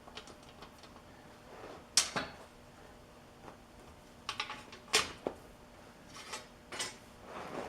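Metal parts being handled and fitted together: a machined sleeve knocking against the drill press shaft and table mount. A few sharp clanks, the loudest about two and five seconds in, with lighter clicks between and a short scrape near the end.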